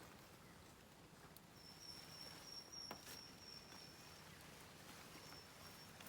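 Quiet outdoor ambience: a thin, high, steady whistle begins just under two seconds in and holds for about two and a half seconds, then returns twice briefly near the end, with a few faint clicks in between.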